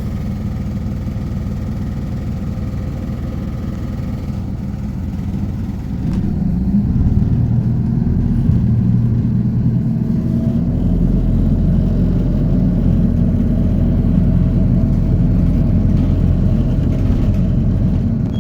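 Hino Poncho bus's four-cylinder diesel engine running, heard from inside the cabin. It runs steadily at a lower level, then grows louder and heavier about six seconds in as it takes more load.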